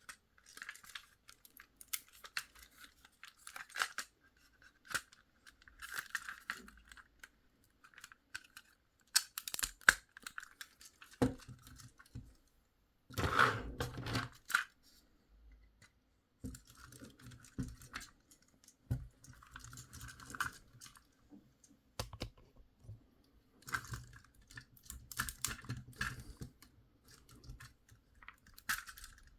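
Hard plastic toy parts of a Hailfire Droid figure being handled and pressed together: irregular clicks and rattles with short bursts of rustling, in clusters separated by brief pauses.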